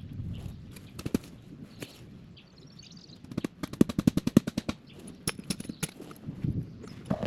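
A fast run of sharp clicks, about ten a second for well over a second in the middle, with scattered single clicks before and after.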